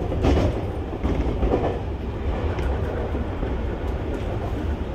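A Keio 1000 series electric train running along the line, heard from inside the front car. A steady low rumble from the wheels and track, with a few clacks at rail joints.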